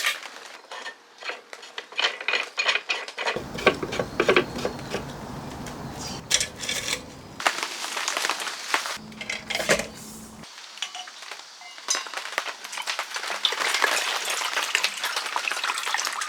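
Clinking and clattering of camp cookware and utensils being handled, in several uneven clusters of short knocks.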